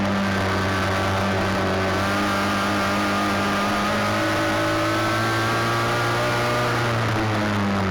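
Midget race car engine running at high revs without a break, its pitch sagging and rising slightly a few times.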